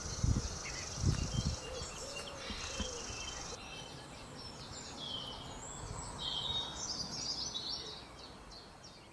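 Outdoor ambience of small birds chirping and trilling, with a steady high hiss that stops about three and a half seconds in. Low bumps of wind or handling on the microphone in the first second or so; the sound grows fainter near the end.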